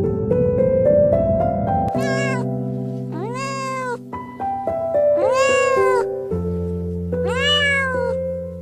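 Scottish Fold cat meowing: a short meow about two seconds in, then three long meows about two seconds apart, each rising and then falling in pitch, over soft piano music.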